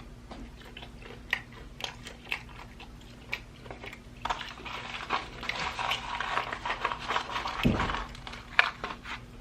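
A person chewing and biting breaded fried chicken dippers close to the microphone: scattered short clicks, becoming a denser run of chewing noise from a little under halfway through until near the end.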